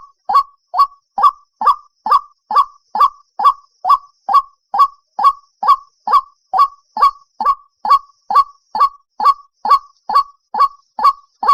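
White-breasted waterhen calling a fast, even series of short, harsh notes, a little over two a second. This is the repetitive call played back as a lure to net the birds at night.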